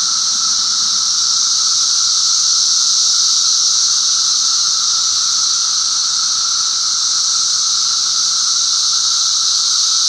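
Chorus of 17-year periodical cicadas: a loud, unbroken, high-pitched drone with a lower steady whine beneath it.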